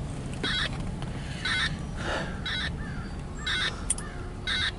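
Railroad end-of-train device (EOT) beeping over and over, about once a second, in short warbling chirps while the crew tests it. A steady low rumble runs underneath.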